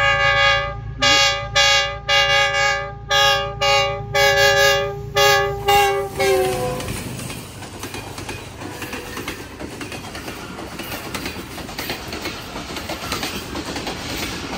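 A diesel locomotive's multi-note air horn sounds in a rapid series of short blasts, about two a second, for the first six seconds, and its pitch drops as the locomotive goes by. Then comes the rumble and wheel clatter of an express train's coaches running through the station at speed.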